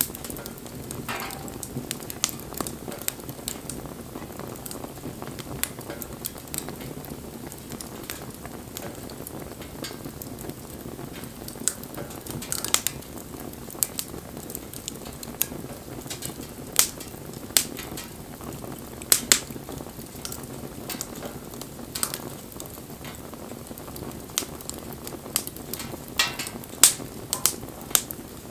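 Wood fire burning: a steady low rush of flame with frequent sharp crackles and pops, and a few louder snaps.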